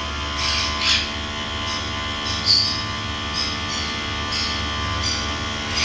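Caged aviary birds giving short high chirps and squawks, some in quick pairs, every second or so over a steady electrical hum.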